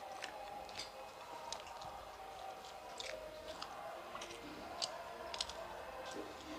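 Close-miked chewing of a mouthful of food, with many short wet mouth clicks and smacks at irregular moments, a few a second; the sharpest come about two thirds of the way through.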